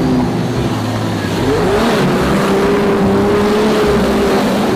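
Car engine running, rising in pitch about a second and a half in as it revs, then holding steady.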